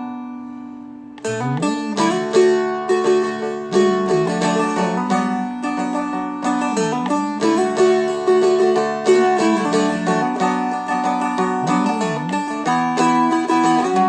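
Seagull Merlin M4, a four-string dulcimer-style instrument, strummed with a steady rhythm and a ringing drone. The song is in B minor. A held chord fades out, and about a second in the strumming starts again and carries on without a break.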